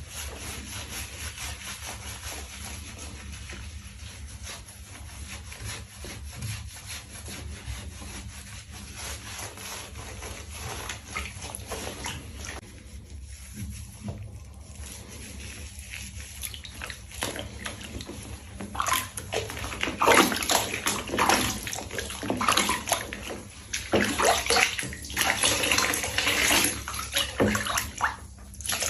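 Water running and splashing in a tub while a cat is washed. A steady flow at first, then about two-thirds of the way through comes louder, uneven splashing and pouring.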